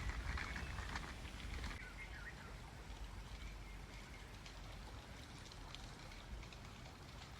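Faint, steady outdoor rushing noise with a low rumble, with a few light clicks and ticks in the first couple of seconds.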